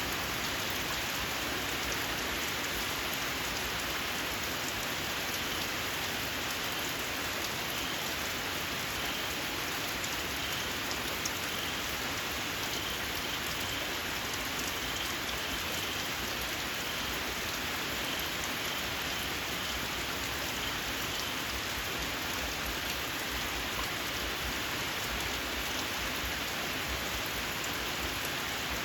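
Steady, even rain. From about six seconds in until past twenty, a small frog gives a faint run of short, high, shrill chirps over the rain.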